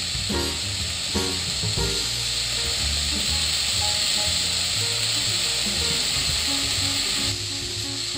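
Beef and onions frying in a pot with a steady sizzle, freshly splashed with soy sauce; the sizzle eases a little near the end. Background music plays over it.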